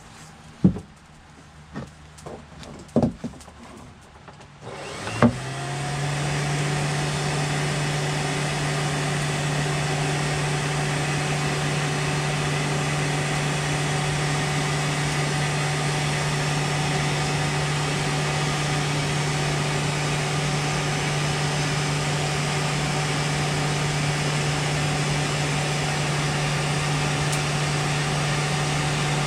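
A few light knocks, then about five seconds in an electric motor starts, spins up quickly and runs at a steady, unchanging hum.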